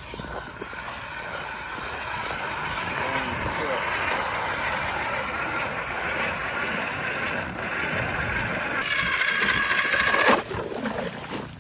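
A motor running steadily, growing louder and brighter about nine seconds in, then cutting off suddenly about a second later.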